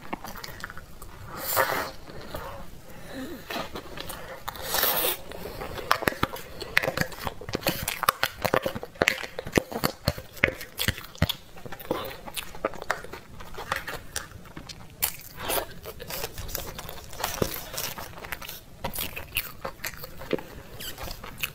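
Close-up eating sounds: chewing and crunching spoonfuls of cream-layered dessert with a crumbly topping, with many quick sharp mouth clicks and smacks.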